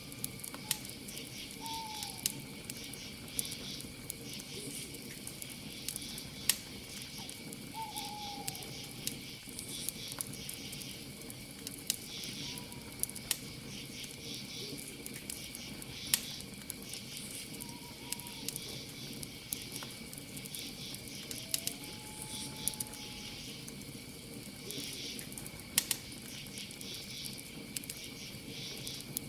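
Campfire crackling with frequent sharp pops, over a steady chorus of crickets and other night insects. Short, falling bird calls come every few seconds.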